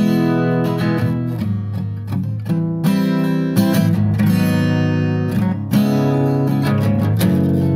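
Background music: strummed acoustic guitar playing a steady run of chords.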